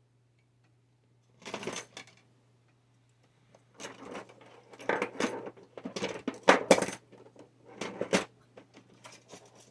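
Small metal hand tools clinking and clattering as they are rummaged through, in irregular bursts that begin after a second or so of quiet and are busiest through the middle.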